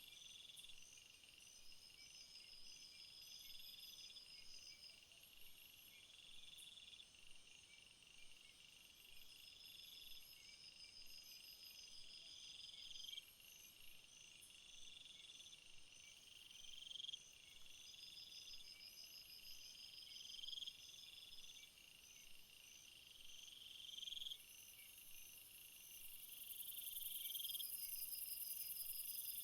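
Chorus of crickets and other insects, faint, with several songs overlapping: a steady high trill, another trill that swells and breaks off every couple of seconds, and quicker pulsed chirps above them. A very high hiss grows much louder near the end.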